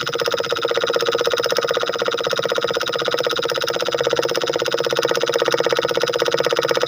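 Small mini diesel engine running steadily, with a rapid, even pulsing beat that holds the same speed throughout.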